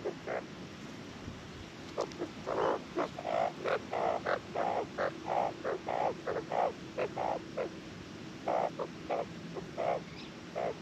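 Australian magpie, the female, calling in a rapid series of short, croaky notes, about two to three a second. A few more spaced calls follow near the end.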